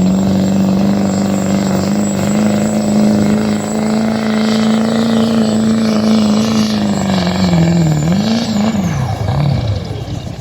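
A pulling vehicle's engine runs hard at a steady high pitch, with a thin high whine above it. About eight seconds in, the pitch falls and swings up and down as the engine winds down.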